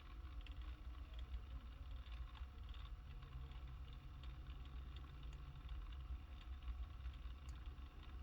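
Faint, steady low rumble inside a car's cabin, with a few faint clicks.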